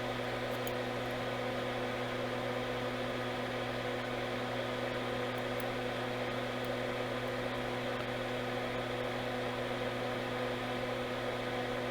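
Steady electrical hum with a faint whir, several fixed tones over a light hiss, from running workbench equipment.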